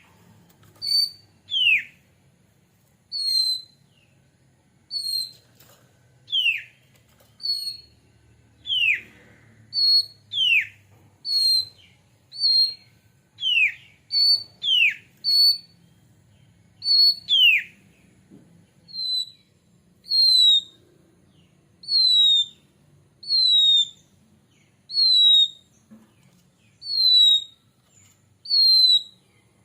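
Oriental magpie-robin (kacer) giving clear whistled notes, about one every second or so. Long notes sliding down in pitch alternate with short high notes at first; in the second half only the short high notes continue, each dipping slightly.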